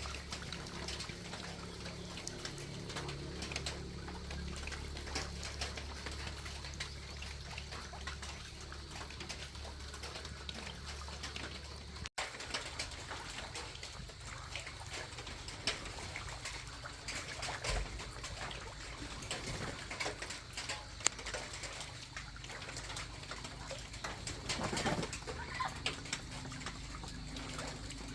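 Rural outdoor ambience with birds calling. A steady low hum runs under the first twelve seconds, then stops suddenly, leaving scattered small clicks and knocks.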